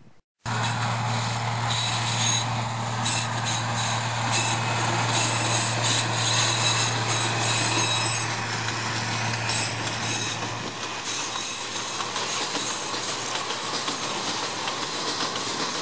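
Narrow-gauge diesel locomotive passing close by, hauling a train of peat wagons: a steady engine hum over the rumble and clatter of the wagon wheels on the track. The engine hum drops away about two-thirds of the way through, leaving the wagons rolling past.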